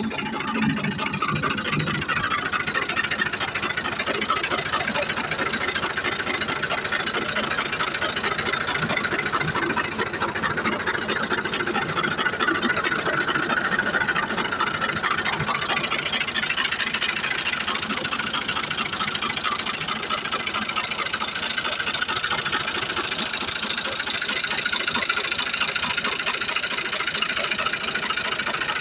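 Diesel tractor engine running steadily, with a fast, even clatter.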